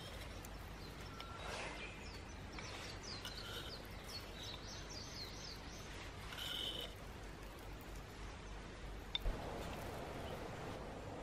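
Small birds chirping in quick series of short high notes over steady outdoor background noise, with a single sharp click about nine seconds in.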